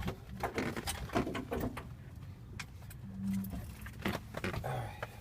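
Clicks, taps and rattles of small hard objects being handled and fiddled with, with a brief low hum about three seconds in.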